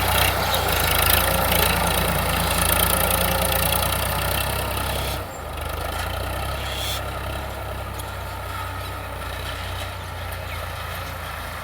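Sonalika DI 745 tractor's diesel engine running steadily. It drops in level suddenly about halfway through, then runs on more quietly.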